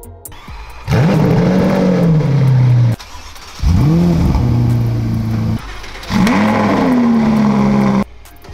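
Supercar engines started one after another in quick cuts, among them the twin-turbo V8s of a Ferrari F8 Tributo and a Ferrari SF90 Stradale. There are three cold starts, each a sharp flare of revs that drops back to a steady idle before cutting off, and a fourth begins at the very end.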